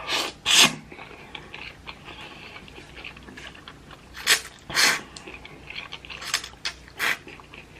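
Close-miked eating of thick ramen noodles: about five loud, short slurps, two near the start, two a little past the middle and one near the end. Between them are small wet clicks of chewing and mouth sounds.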